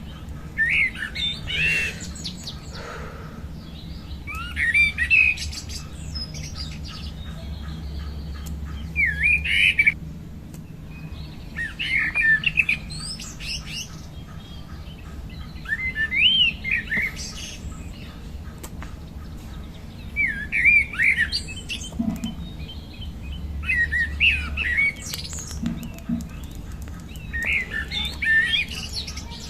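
A songbird calling in short bursts of quick, twisting chirps, a burst every three to four seconds, over a low steady hum.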